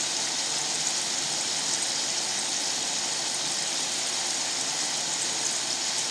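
Diced potatoes frying in oil in a stainless steel fry pan: a steady sizzling hiss with faint tiny pops.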